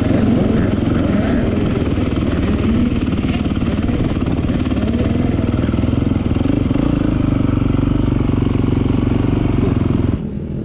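Beta 450 RX motocross bike's single-cylinder four-stroke engine running steadily at a fairly even pitch. Near the end the sound drops and turns duller.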